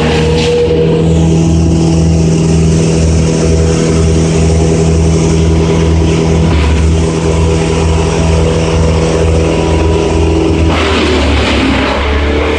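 An engine running steadily with a pulsing low rumble; about eleven seconds in its sound changes and a harsh hiss comes in.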